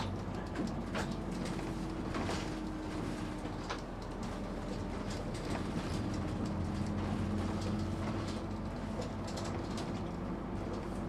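Passenger train running on rails: a steady low hum with a few held tones, and scattered short clicks and knocks.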